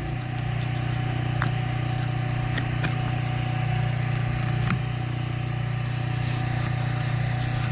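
Pressure-washing rig's gas engine running steadily: a low drone with a faint steady whine above it. A few light clicks sound over it.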